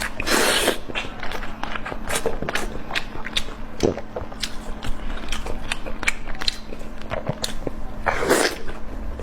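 Close-miked eating sounds: chewing and biting with many quick, wet clicks and smacks. There are two louder, longer sounds, one just after the start and one near the end.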